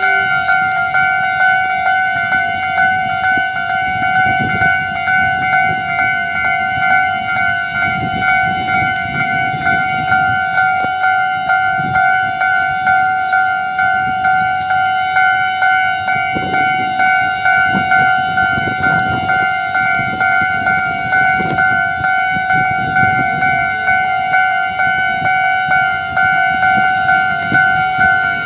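Electronic level-crossing warning bell ringing over and over, a steady pitched ding about twice a second, with a low rumble swelling and fading underneath.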